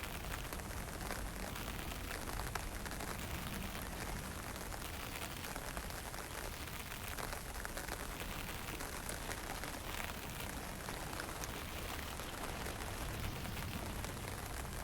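Fine rain and drizzle falling with wind: a steady hiss scattered with tiny drop ticks over a low rumble.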